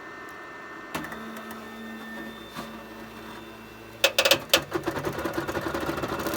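FLSUN delta 3D printer running an auto bed-level: a steady fan hum, then from about a second in the stepper motors start with a click and a low, steady whine as the carriages move. From about four seconds in there is a rapid, loud clatter of knocks from the mechanism.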